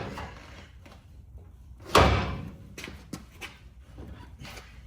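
A single heavy slam about two seconds in, its sound dying away over half a second, followed by a few lighter knocks.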